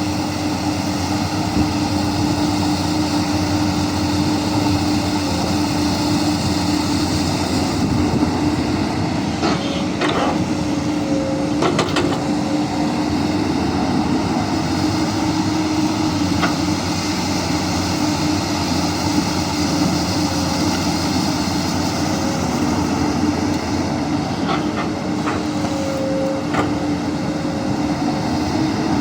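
Komatsu PC200 hydraulic excavator's diesel engine running steadily under working load, with a held drone. A few sharp knocks come about ten to twelve seconds in and again around twenty-five seconds.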